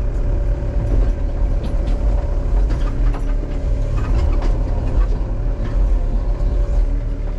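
Excavator's diesel engine running steadily under load, with a constant low rumble, a steady tone and a few light clanks as the machine works.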